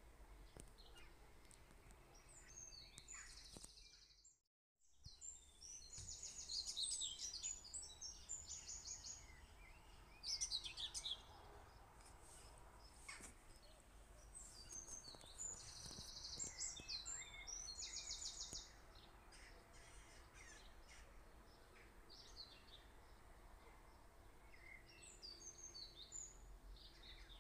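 Faint bird chirps and rapid trills, repeating on and off, over a low background hum, with a brief dropout about four seconds in.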